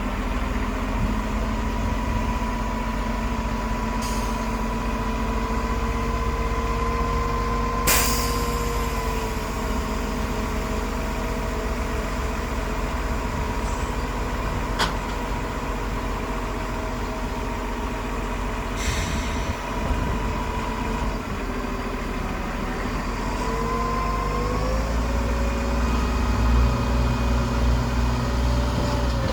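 Heavy diesel earthmoving machinery running steadily, its engine note shifting a couple of times and growing heavier near the end. A few short hisses cut in, one of them with a sharp knock, and there is a single click in the middle.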